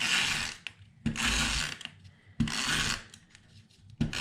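Three scraping strokes about a second apart, each under a second long, with a shorter one near the end, from paper pieces being worked by hand on a crafting table.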